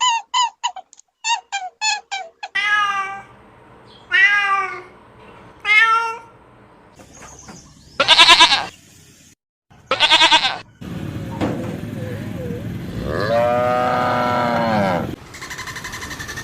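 A succession of separate animal calls. It opens with a quick run of short repeated calls, then three falling calls, then two loud short calls. It ends with one long low call of about four seconds whose pitch drops at the end.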